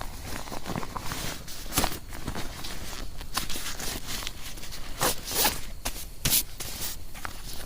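Irregular short scrapes and rustles, like gear being handled, with a few louder strokes about five to six and a half seconds in.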